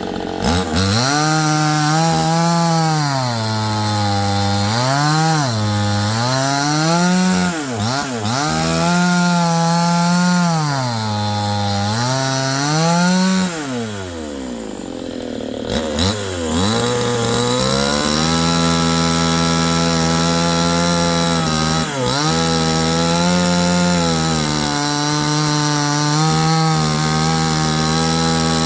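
Two-stroke chainsaw cutting wood, its engine revving up and falling back every second or two, then running steadily at high speed for the second half with a brief dip in the middle.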